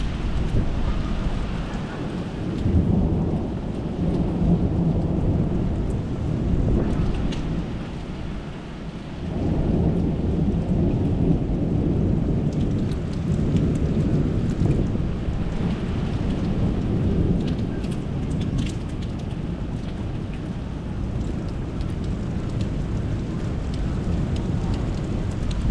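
Thunder rumbling long and low with steady rain falling; the rumble eases about eight seconds in, then rolls back up a second or so later and carries on.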